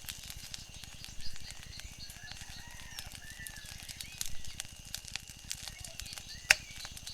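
Wood fire crackling with scattered small pops, and one sharp, loud pop about six and a half seconds in, over a low steady rumble.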